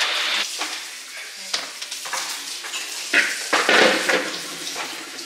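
Food sizzling as it cooks, a steady frying hiss. A metal utensil clinks and scrapes against the cooking surface several times about three to four seconds in.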